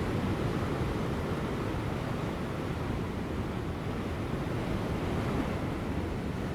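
Ocean surf crashing on rocks: a steady, deep wash of breaking waves with wind, fading slightly toward the end.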